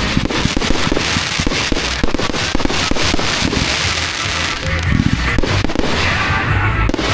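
Fireworks going off in a rapid string of sharp cracks and pops, densest in the middle.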